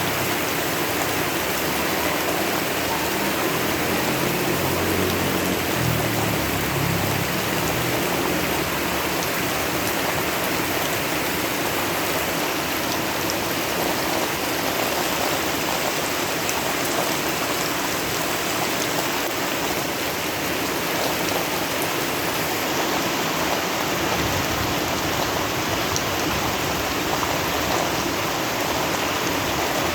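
Steady rain falling, mixed with the continuous rush of river water.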